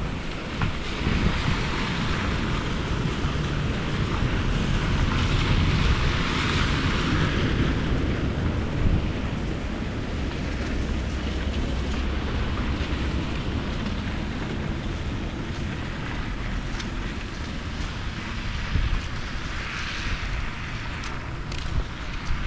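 Rainy street ambience: a steady wash of rain and traffic noise with wind rumbling on the microphone, swelling twice as vehicles pass on the wet road. A few light ticks near the end.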